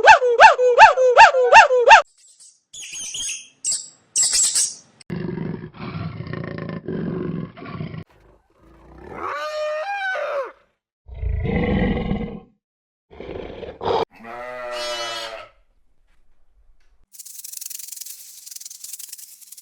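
A string of separate wild animal calls with silent gaps between them: first a fast run of evenly spaced pitched yelps, about four a second, then short high chirps, low rough calls, a call that rises then falls, and a rattling call, ending in a soft hiss.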